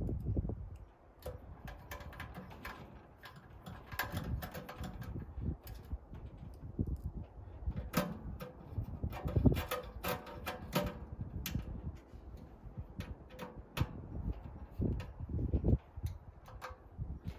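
Sheet-metal parts of a wood-burning stove being handled: scattered clanks and taps, a few ringing briefly, with some dull thuds.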